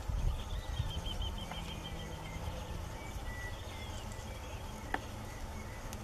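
Birds calling: a rapid run of high, evenly spaced notes starting about half a second in, then scattered short whistles, over a low rumble. A single sharp click comes near the end.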